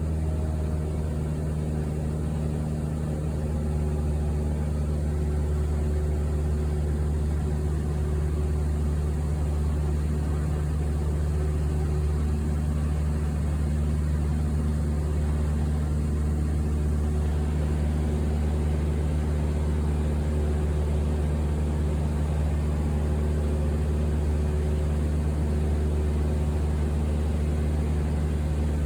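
Steady low engine drone heard from inside an airliner cabin in flight, a constant hum with a few faint steady tones above it.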